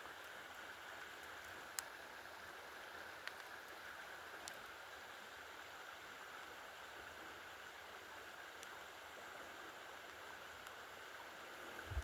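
Faint, steady rush of flowing water from a creek, with a few small clicks in the first few seconds.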